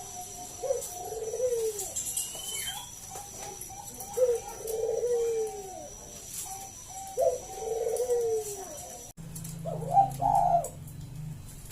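Bangkok-type perkutut (zebra dove) cooing: rolling, repeated coo phrases, the strongest coming about every three seconds. After an abrupt break near the end, a low steady hum sits under one more coo.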